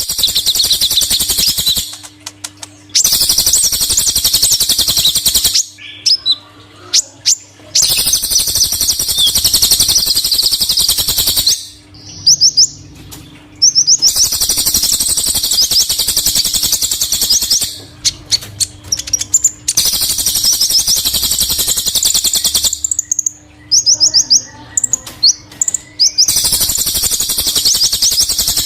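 Sunbirds (Indonesian 'kolibri') twittering in a dense, rapid, high-pitched stream of chirps. The song comes in stretches of several seconds that stop abruptly at short gaps.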